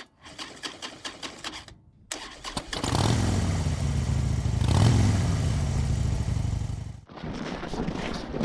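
A few clicks and knocks, then an engine starting up and running loudly, rising briefly in the middle, before it cuts off abruptly; a clattering noise follows near the end.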